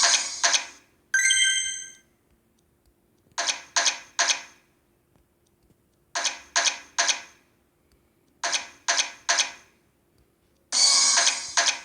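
Video slot machine sound effects: a short electronic chime, then three groups of three quick bright reel-stop sounds about 0.4 s apart, one group every few seconds, and a longer bright electronic burst near the end.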